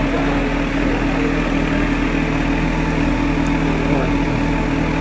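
Kawasaki Z H2's supercharged inline-four engine idling steadily, with no revving.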